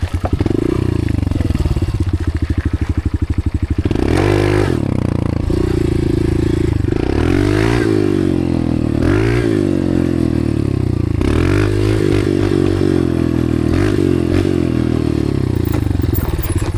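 Dirt bike engine being ridden, its revs rising and falling several times as the throttle is opened and closed, with the biggest swings in the middle.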